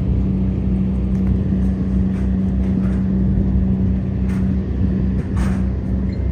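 River tugboat's diesel engine running steadily under load, a deep even drone while towing a cargo barge against the current.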